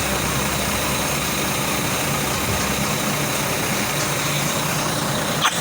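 Engine idling steadily over a constant rushing hiss, with one short knock near the end.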